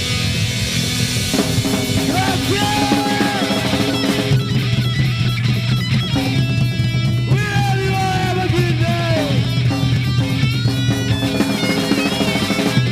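Heavy metal band playing live: a distorted electric guitar lead with bending notes over bass and drums.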